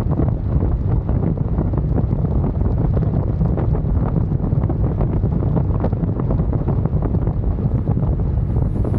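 Wind buffeting the microphone on a moving motorcycle: a steady loud rumble.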